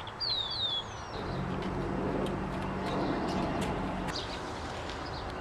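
Two quick high bird chirps, each falling in pitch, then a steady low engine hum from a passing or idling motor vehicle that stops about four seconds in.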